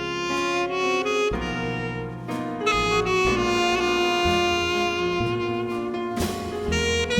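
Live jazz quintet playing, with a saxophone carrying the melody over piano, upright bass and drum kit.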